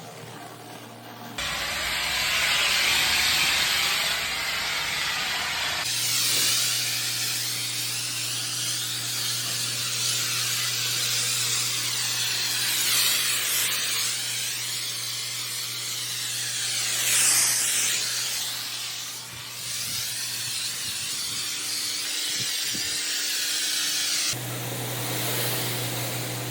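High-pressure water jet from a pressure washer spraying a surface: a loud, steady hiss whose pitch sweeps up and down, over a steady low hum. The spray starts sharply about a second and a half in and changes abruptly a couple more times.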